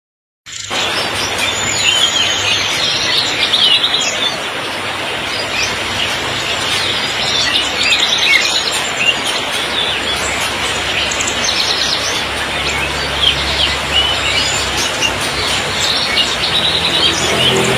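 Many caged songbirds chirping and trilling together over the steady hiss of heavy rain, starting abruptly about half a second in.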